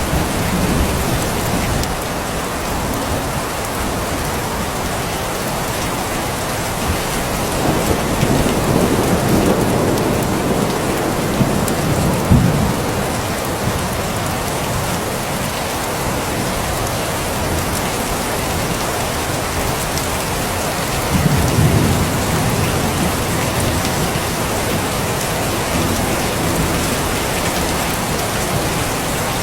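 Steady, even rain falling, with distant thunder: a low rumble builds from about 7 seconds in and peaks in a loud clap about 12 seconds in, and a second, shorter rumble comes around 21 seconds.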